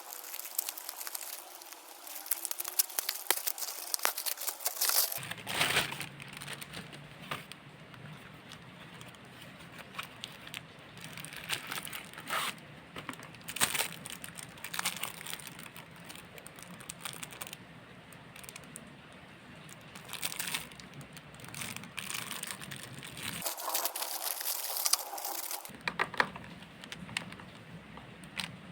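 Packaging crinkling and rustling as it is handled and opened, with irregular sharp crackles and clicks that come in louder bursts near the start and again near the end.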